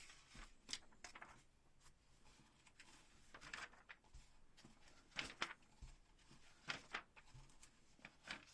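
Paper instruction booklet being leafed through by hand: faint, scattered page rustles and soft clicks against near silence.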